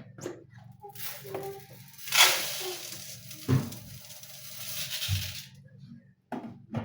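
Kitchen work: a steady hiss lasting about four and a half seconds, loudest near its start, among knocks and clinks of dishes and utensils, over a low steady hum.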